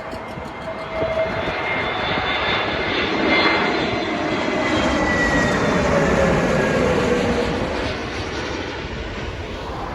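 Jet airliner passing low on its landing approach: the engine rush swells, is loudest in the middle, then eases off, while the engine whine drops in pitch as the aircraft goes by.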